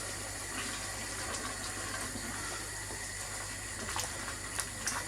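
Chicken curry sizzling and bubbling steadily in a hot cast-iron Dutch oven, with a few light clicks near the end.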